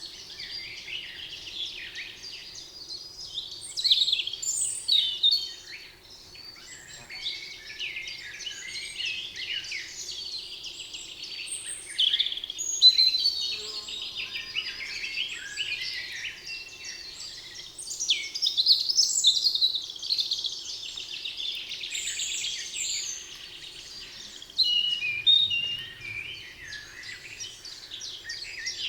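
A chorus of several wild birds singing in a spring forest, with many overlapping chirps and trills and louder bursts every few seconds. A faint steady low hum runs underneath.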